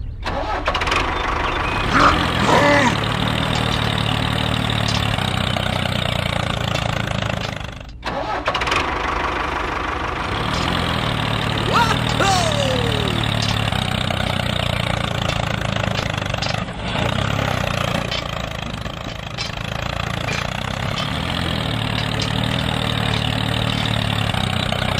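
Diesel tractor engine running steadily. It cuts out briefly about eight seconds in, and there is a short falling tone about twelve seconds in.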